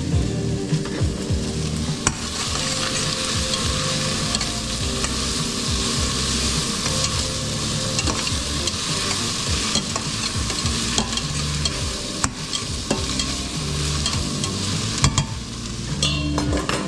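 Food sizzling and frying in a pan while it is stirred, a steady hiss with occasional sharp clicks of the utensil against the pan.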